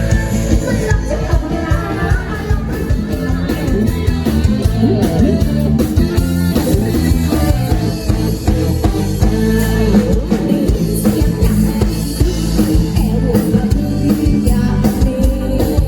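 Live rock band playing loudly, with a singer, electric guitar and drum kit.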